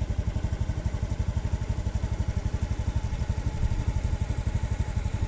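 A small engine running steadily, with a rapid, even low pulsing of about ten beats a second.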